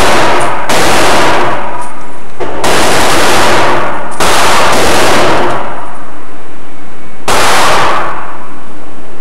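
Loud gunshots at irregular intervals: about four sharp reports, each ringing off over roughly a second.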